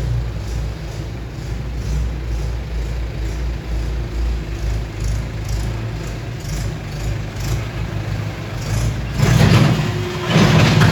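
Road traffic on a rainy night: a steady low engine rumble, with two vehicles passing close and louder near the end, their tyres hissing.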